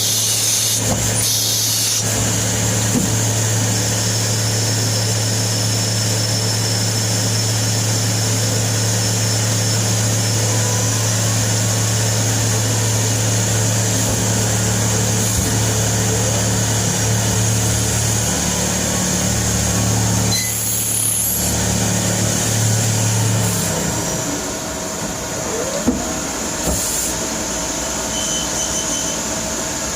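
CNC lathe running while turning a threaded pipe double nipple: a steady low hum with a high whine and hiss. The hum cuts off about 23 seconds in, leaving a quieter machine sound with a few light knocks.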